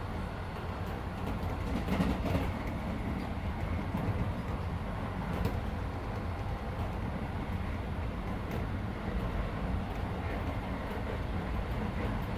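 Keisei 3400 series electric train running at speed, heard from inside the car: a steady low rumble of wheels on rail, with a few sharp knocks over rail joints, the loudest about two seconds in.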